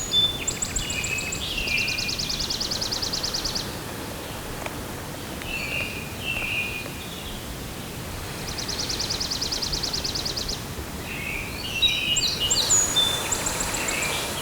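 Wild songbirds singing outdoors: varied high chirping phrases near the start and again near the end, and a fast, even trill lasting about two seconds that comes twice, over a faint steady outdoor background.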